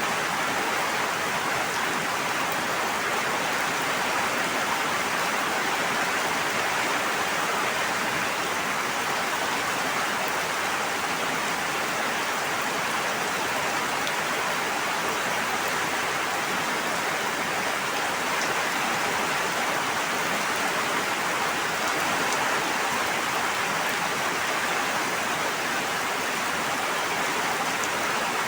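Steady, even hiss of water falling or flowing, with no change in level.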